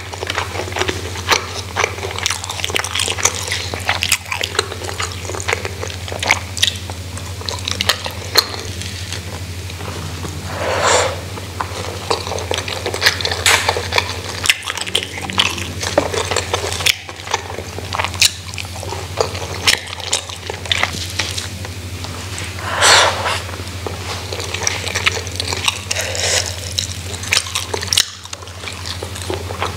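Close-miked eating sounds of a rice meal with grilled chicken and fritters eaten by hand: wet chewing and lip smacks with many small clicks. About eleven and twenty-three seconds in come two brief, louder wet mouth sounds. A steady low hum lies underneath.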